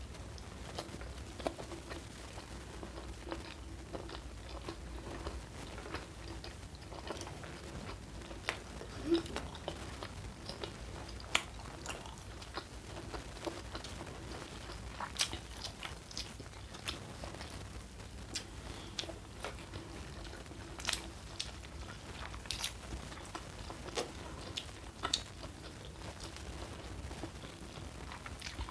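Close-up eating: chewing, with scattered sharp crunches of kerupuk crackers being bitten.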